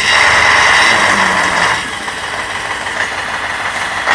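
Heavy truck engine running hard, with a loud steady noise for the first couple of seconds that then eases to a lower level.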